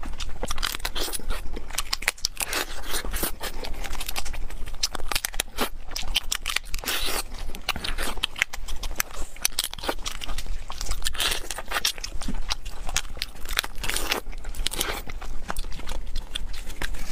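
Close-miked eating sounds: biting and chewing cooked lobster, with a dense run of wet crunching and clicking mouth noises.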